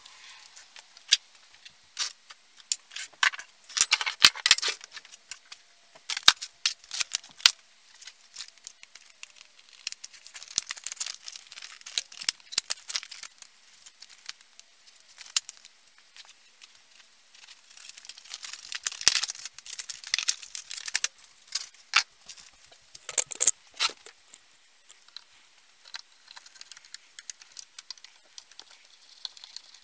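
Small metal parts and hand tools being handled: irregular clinks, clicks and rattles, with busier clusters every few seconds.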